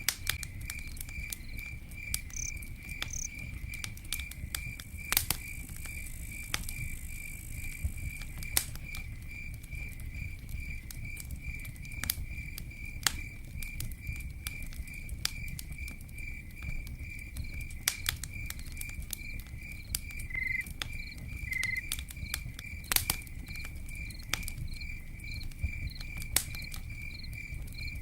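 Campfire crackling, with sharp pops scattered over a low rumble, while a cricket chirps steadily in an even, quick rhythm.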